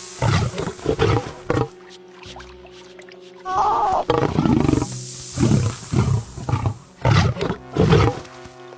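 Lions growling and snarling in short repeated bursts, over background music.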